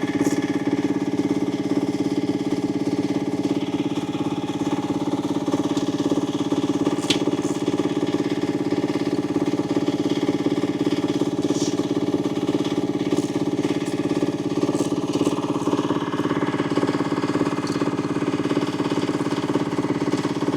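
UME10P mini excavator's engine idling steadily, with a few faint clicks over it.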